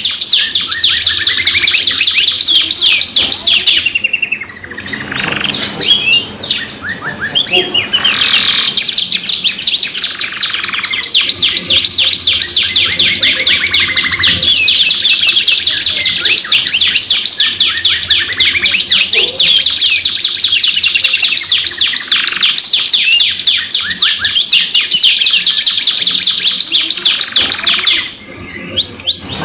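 Domestic canaries singing long, rapid rolling trills, one phrase running into the next. The song thins out briefly about four to eight seconds in and again near the end.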